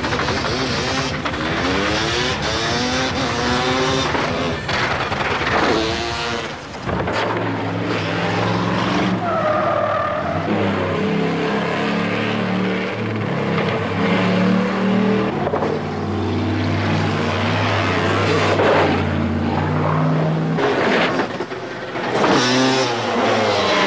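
Stunt vehicles' engines running and revving repeatedly as they accelerate and slow on a paved track, with a brief tire squeal about ten seconds in.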